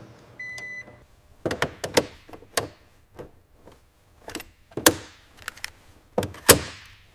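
A short electronic beep about half a second in, then a series of sharp clunks and knocks. The loudest comes near the end and trails off in a short hiss.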